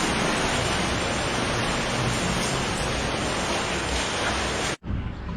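Steady rushing of water in a cave stream passage, an even, loud hiss that breaks off abruptly near the end.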